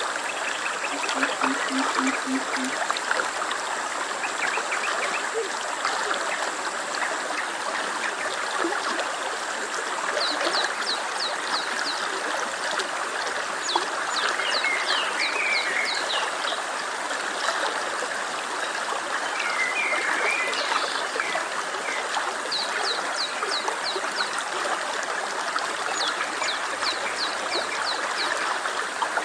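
Stream water running and trickling steadily, with a bird's quick, high trill coming in several times.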